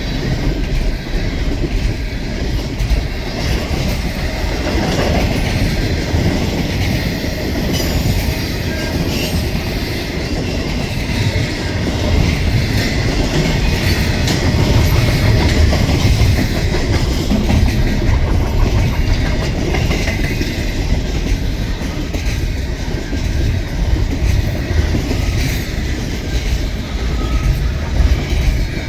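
Double-stack container cars of a long freight train rolling past: a steady rumble of steel wheels on rail with clicking as the wheels cross rail joints.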